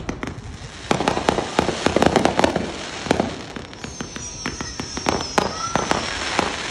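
Consumer fireworks going off: many sharp bangs and crackling pops from rockets and bursting shells. A high whistle, falling slightly in pitch, runs for about two seconds from around four seconds in.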